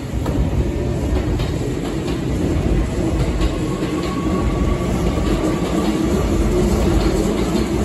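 Hankyu electric train noise at a station platform: a steady low rumble that builds slightly, with a faint steady whine coming in about three and a half seconds in.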